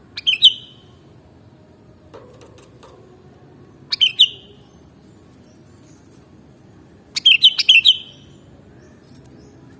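Sooty-headed bulbul (kutilang) singing: three short bursts of quick chirpy notes a few seconds apart, the last one longer, with several notes in a row.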